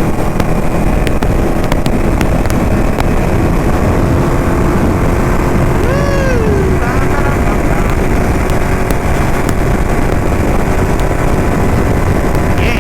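Ducati motorcycle running at riding speed, engine and road noise steady and loud, heard from the rider's position. A short falling tone sounds about six seconds in.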